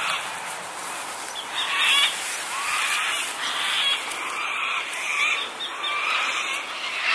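Birds calling, with short chirping calls repeating every second or so.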